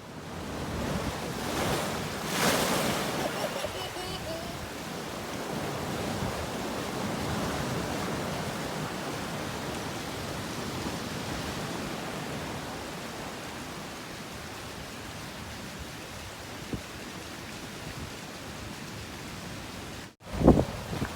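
Big waves breaking and surging in strong wind: a steady rushing noise, with a louder surge about two to three seconds in. The sound cuts off abruptly shortly before the end.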